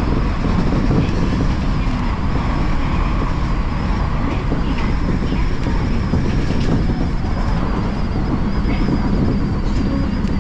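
Odakyu Line commuter train running along the track: a steady, loud rumble of wheels on rail, with a few faint clicks.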